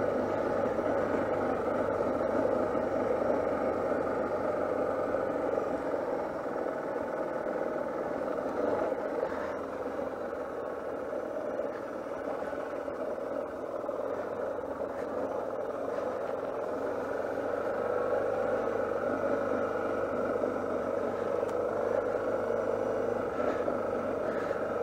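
Suzuki DR650's single-cylinder four-stroke engine running steadily as the motorcycle rolls slowly along a dirt track.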